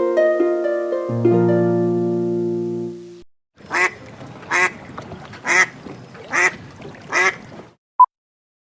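A short jingle of plucked notes, then a bird call repeated five times about a second apart, then a single short beep near the end.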